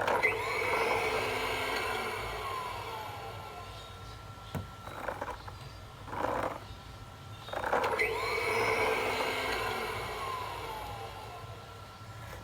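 Fisher-Price toy vacuum cleaner playing its electronic sound effect through its small speaker, twice: each time it starts suddenly with steady tones and sweeping glides, then fades over a few seconds. Two short, softer sounds come in between.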